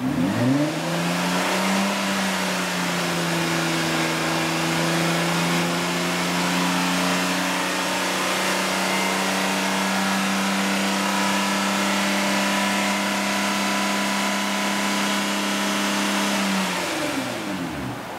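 Nissan Presage exhaust with an aftermarket round bullet-type rear silencer on the stock front and centre pipes, deep-toned. The engine is revved up from idle, held at steady high revs for about fifteen seconds, then let drop back toward idle near the end.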